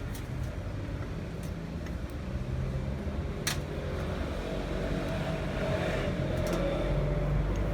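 A car engine running with a steady low hum, with a few sharp clicks, the clearest about three and a half seconds in.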